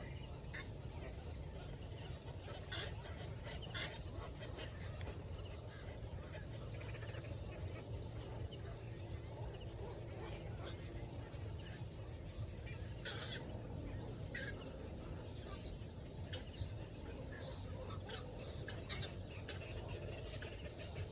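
Birds settling to roost for the night, giving scattered short chirps and calls over a steady high insect drone and a low background rumble.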